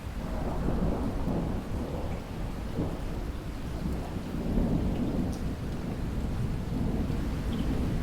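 Thunder rumbling over steady heavy rain: a low rolling rumble swells in at the start and keeps going beneath the hiss of the rain.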